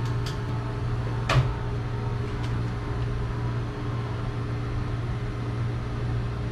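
Heat pump running in heating mode with a steady low hum. A few light clicks come near the start and one sharper knock about a second in.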